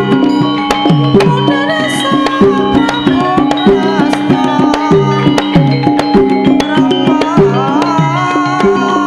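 Javanese gamelan music for lengger dance: kendang hand drums beat a steady rhythm with pitch-bending strokes over ringing metallophone tones.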